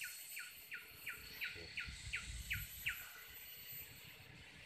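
A bird calling: a run of short, clear notes, each falling in pitch, about three a second, stopping about three seconds in.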